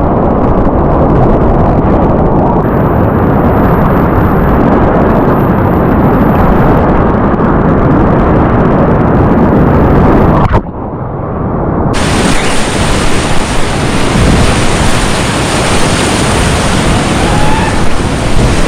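Whitewater rapids rushing loudly, a dense steady wash of water noise. About ten seconds in, the high end suddenly drops out and the sound goes muffled for a second or so, then the full rush returns.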